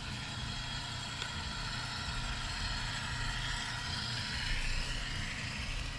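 Sound-equipped model diesel locomotives running, their onboard sound decoders playing a steady diesel engine rumble over a continuous hiss of running gear.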